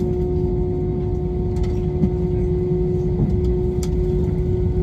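Airbus A321 cabin noise: a steady low rumble from the jet engines and airflow, with a constant hum and a few faint rattles.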